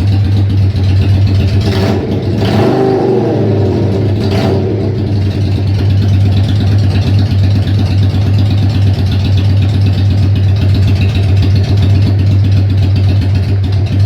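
Yamaha XV535 V-twin motorcycle engine running at a loud idle through unbaffled, freshly wrapped exhaust pipes, with a brief blip of the throttle about two to four seconds in.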